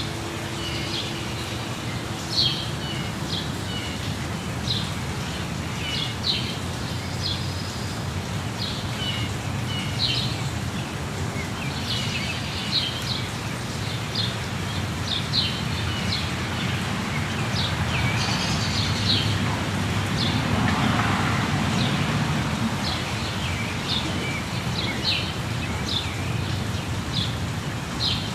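Birds chirping and singing over a steady rush of falling water, with a swell in the rushing about two-thirds of the way through.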